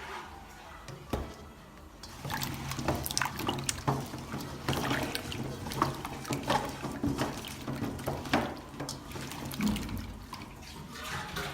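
Water running and splashing, as from washing in a sink, with many small knocks and clatters, starting about two seconds in.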